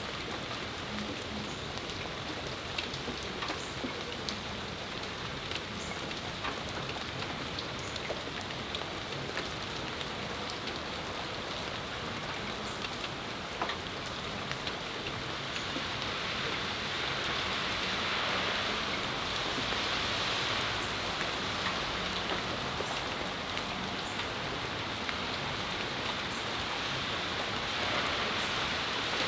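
Steady rain falling, with a dense hiss and many close drops ticking on hard surfaces. About halfway through the hiss swells louder and stays somewhat fuller.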